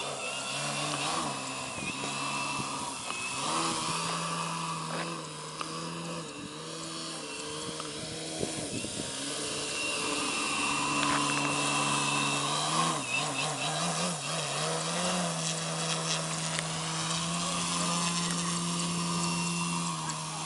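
Gasoline engine of a 67-inch Sbach 300 radio-control aerobatic model plane running, a buzzing two-stroke note like a chainsaw. Its pitch shifts up and down several times, with a wavering stretch past the middle.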